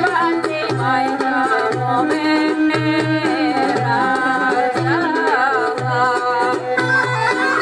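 Bulgarian folk dance music for a pravo horo: a lively melody with vibrato over a steady low drum beat.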